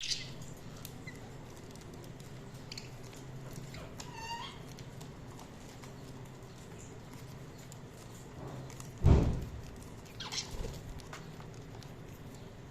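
Budgerigars giving a few short, sparse chirps, with one warbling call about four seconds in, over a steady low hum. A loud thump about nine seconds in, and a softer one a second later, are the loudest sounds.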